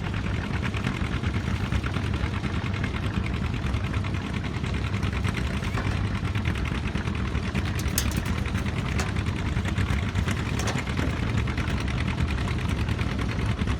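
Tractor engine running steadily with a rapid, even firing beat, with a few sharp clicks partway through.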